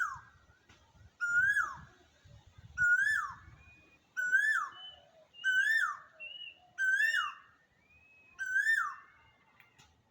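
A bird calling over and over with a short whistled note that rises and then drops sharply, about once every second and a half, with fainter higher chirps between the calls; the calls stop near the end.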